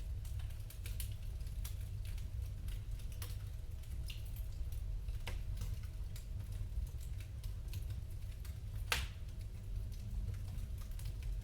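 Wood fire crackling in a fireplace: irregular snaps and pops over a steady low rumble, with one louder pop about nine seconds in.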